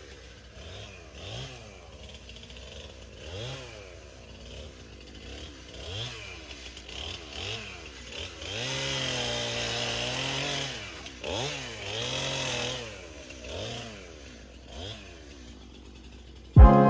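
Two-stroke chainsaw revved in repeated short bursts, its pitch rising and falling about once a second. Around the middle it holds one longer high rev for about two seconds.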